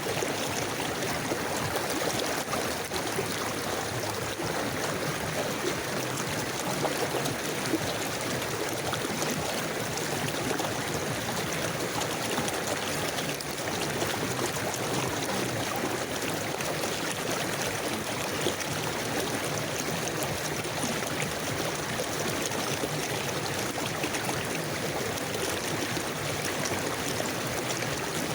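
River water flowing steadily over stones, a continuous babbling and trickling rush with no breaks.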